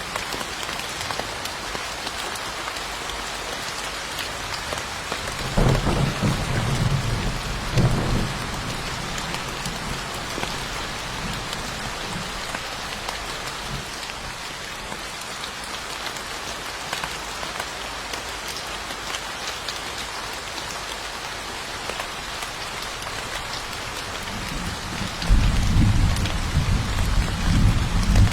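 Steady heavy rain hissing, with two low rumbles of thunder: one about six seconds in lasting a couple of seconds, and another building near the end.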